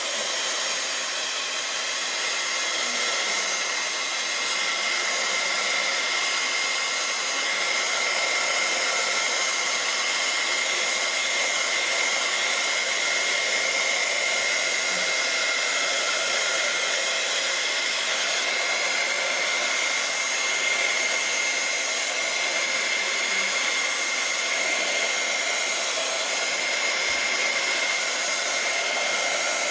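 Craft heat gun blowing hot air, running steadily with a constant whine.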